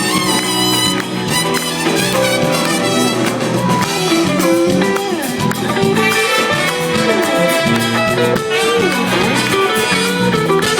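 Live band playing an instrumental break: a saxophone solo over guitar, drums and brass.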